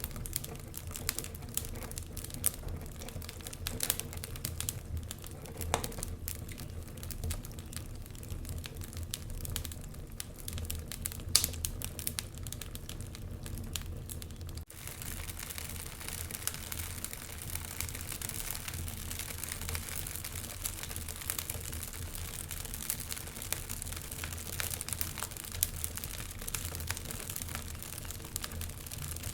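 Wood fire crackling in a fireplace: irregular sharp pops and snaps over a steady low rumble of the flames. About halfway through the sound drops out for an instant and comes back with a denser hiss.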